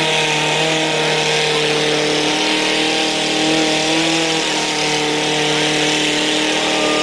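Pickup truck engines held at high, steady revs under heavy load as the trucks pull against each other, the pitch shifting only a little.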